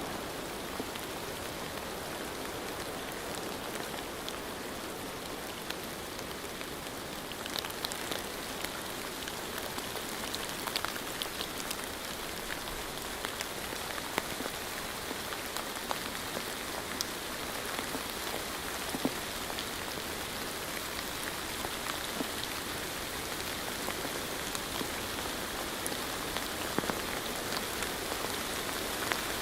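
Steady rain, a dense even hiss with scattered sharper drop ticks that grow more frequent after several seconds.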